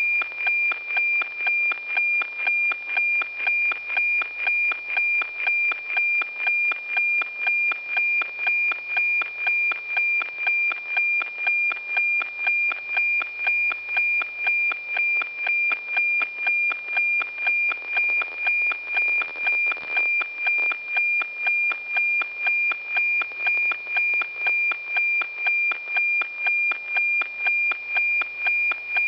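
NOAA-15 weather satellite APT signal heard through a radio receiver: a steady tone near 2.4 kHz pulsing with a regular tick-tock about twice a second, one pulse per scan line of the image being transmitted. A little extra static rises briefly about two-thirds of the way through.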